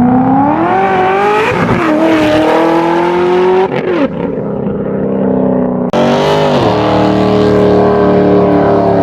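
A performance car's engine accelerating hard, loud, its pitch climbing and then dropping sharply as it shifts up through the gears, two or three times.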